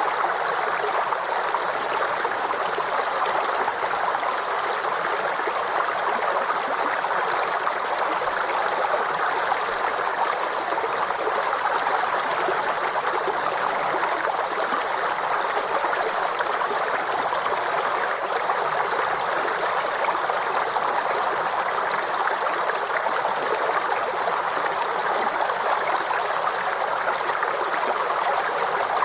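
Forest stream running over rocks in a steady, even babble.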